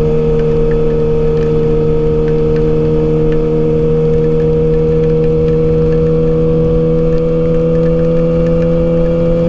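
Kawasaki ZX-6R's inline-four engine running at steady cruising revs, its pitch creeping up slightly near the end, over a low wind rumble.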